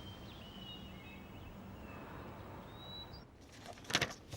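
Faint birds chirping in short, high calls over quiet outdoor background hiss. A short sharp knock sounds near the end.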